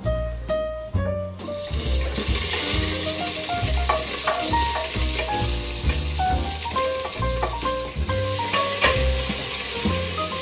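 Food sizzling as it fries in hot oil in a pan, a steady hiss that starts about a second and a half in. Background music with short melodic notes and a bass line plays throughout.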